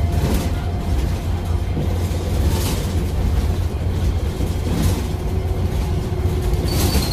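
A steady low rumble, like a running vehicle, with brief hisses about two and a half and five seconds in.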